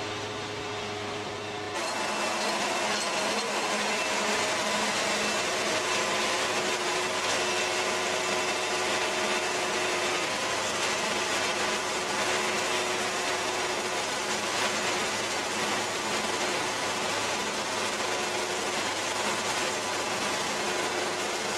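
Bandsaw sawmill running, its band blade entering a small pine log about two seconds in and then sawing steadily through it over the engine's hum.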